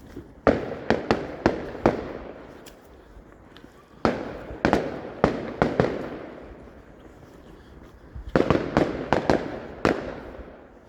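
Fireworks going off in three volleys of sharp bangs, each volley several reports a fraction of a second apart, with echoing tails that fade between volleys.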